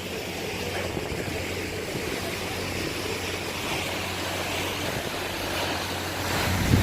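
Cruise boat's engine running with a steady low drone, under a hiss of wind on the microphone.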